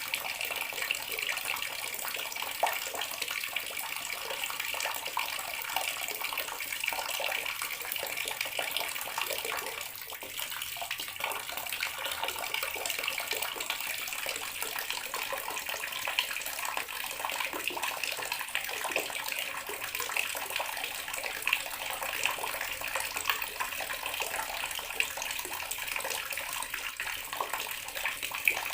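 Bathroom water tap running steadily, its stream splashing into the basin below with a constant hiss.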